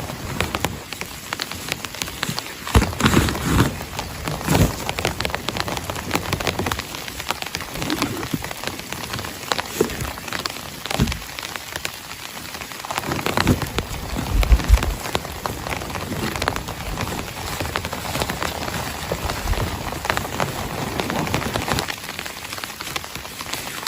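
Heavy rain falling, with countless drops striking a surface in a dense ticking hiss. A few louder, deeper thuds come and go, about three seconds in and again around the middle.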